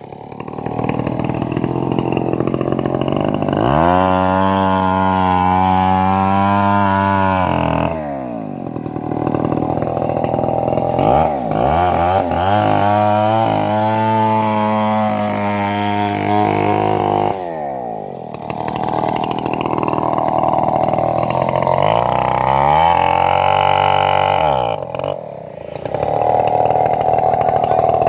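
Engine-driven homemade bandsaw running and sawing rain tree (trembesi) timber. The engine's pitch sags and recovers several times as the blade is loaded in the cut and then eased.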